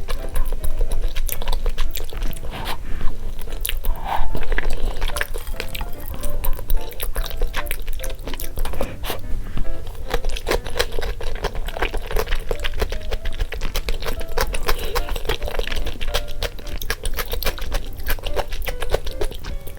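Close-miked eating: chewing with frequent sharp mouth clicks, over light background music.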